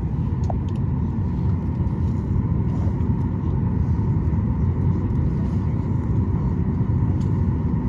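Steady low rumble of cabin noise inside a Boeing 737 MAX 8 airliner, with a faint steady whine over it and a few faint ticks.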